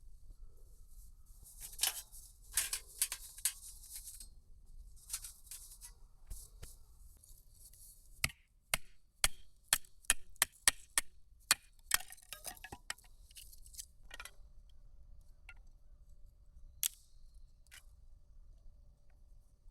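Bursts of rustling, then a quick run of about a dozen sharp clicks and taps over some six seconds, with one more click near the end: small objects being handled.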